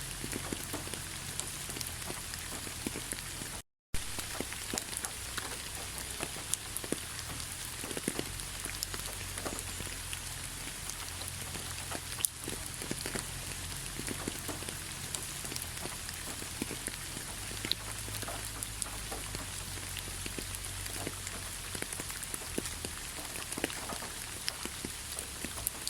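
Steady rainfall, with many distinct drop hits over a constant hiss. The sound cuts out completely for a fraction of a second about four seconds in.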